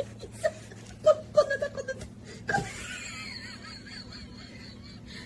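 A person laughing in a run of short bursts, followed by a fainter, higher wavering sound over a steady low hum.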